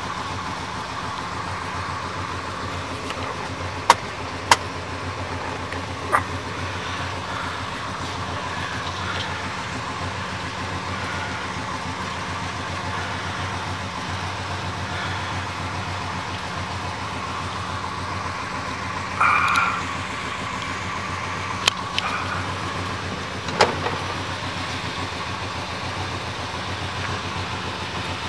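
1979 Pontiac Trans Am's V8 idling steadily, with a few sharp clicks and knocks scattered through.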